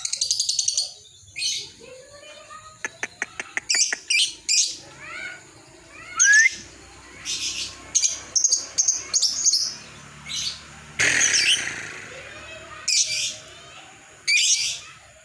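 Lovebird calling in short, shrill chirps and squawks with pauses between them. There is a quick run of clicks about three seconds in and a longer, harsher screech about eleven seconds in.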